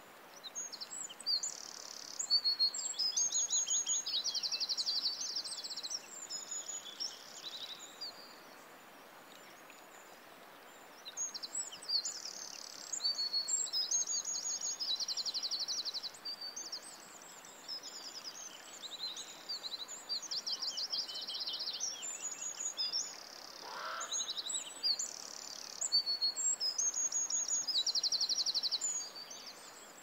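Songbird singing high, rapid phrases with fast trills, in bouts of several seconds with a pause of a few seconds about a third of the way in, over a steady faint hiss.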